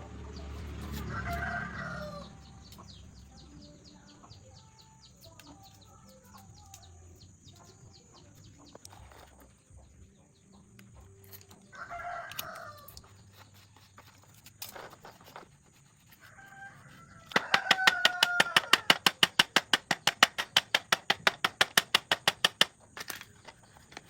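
A rooster crowing several times. Partway through, a loud, fast, regular train of mechanical knocks runs for about five seconds and then stops.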